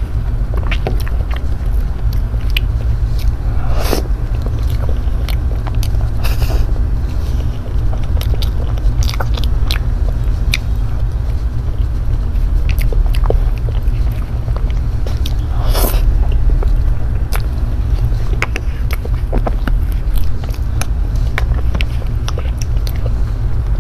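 Close-miked eating of soft cream-filled mango cake: wet chewing and small mouth clicks, with a plastic spoon scraping and tapping in the cake box, over a steady low rumble.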